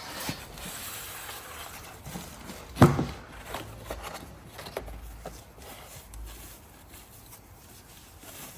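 Scattered clicks and knocks of metal exhaust parts being handled and fitted on a motorcycle, with one louder knock about three seconds in.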